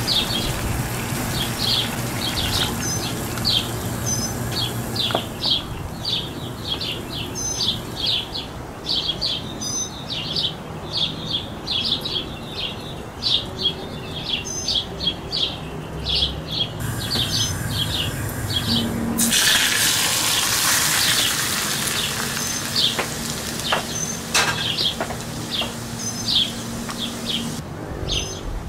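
A small bird chirping over and over, short high chirps two or three a second, over a low steady hum. About two-thirds of the way through, a rushing hiss rises for a couple of seconds and is the loudest part.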